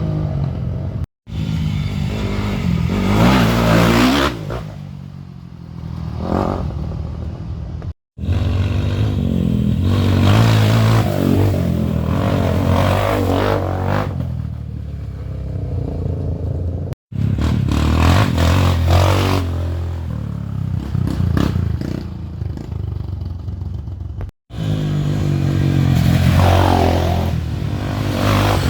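Dirt bike engines revving hard in repeated surges, rising and falling in pitch, with clattering and scraping. The sound breaks off abruptly four times where shots are cut together.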